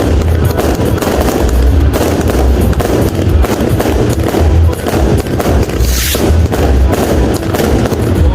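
Fireworks and firecrackers going off in rapid bangs and crackles, with a brighter hissing burst about six seconds in, over music with a heavy bass beat.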